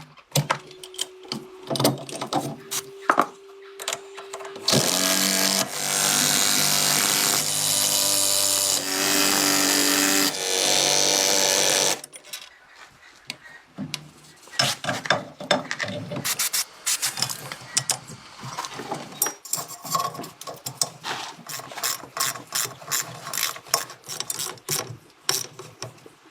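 Tool work during car repair: rapid ratchet-like clicking, with a power tool running loudly for about seven seconds in the middle.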